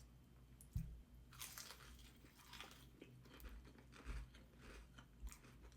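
Faint crunching and chewing of a crispy fried chicken tender being bitten into, in short crackly strokes, with one low thump just under a second in.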